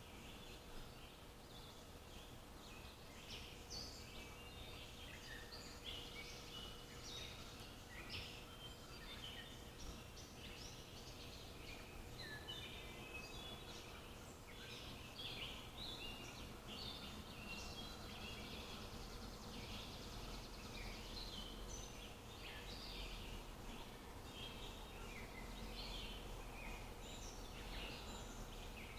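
Several small songbirds chirping and twittering continuously in quick, overlapping short calls, over a faint steady low background hum.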